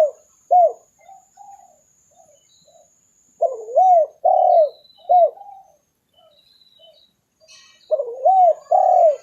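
Spotted dove cooing: phrases of three or four rolling coos, each phrase repeated about every four and a half seconds.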